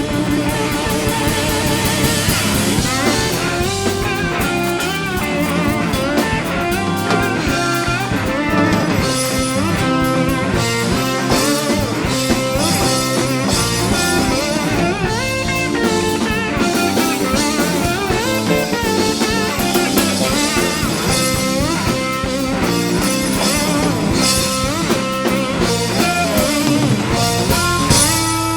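Live blues-jazz rock band playing: an electric slide guitar lead with bending, gliding notes over drum kit and bass.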